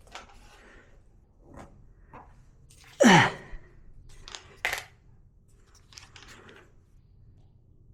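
Toy quadcopter drone's small motors giving one short whir about three seconds in, its pitch falling fast as it spins down, amid scattered light clicks and knocks of the plastic drone being handled. The drone is shedding its propellers, a fault the owner later traces to a low battery.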